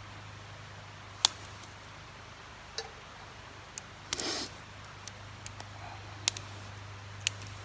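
Twig fire in a small folding wood stove: scattered sharp crackles and clicks, with a brief scraping rustle about four seconds in.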